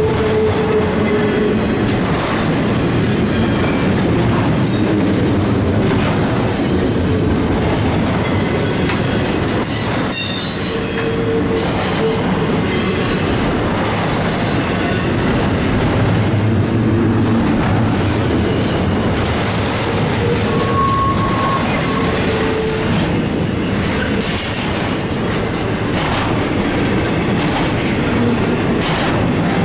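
Double-stack intermodal freight train rolling past at steady speed: a continuous rumble of wheels on rail with clicking over rail joints and a few short wheel squeals.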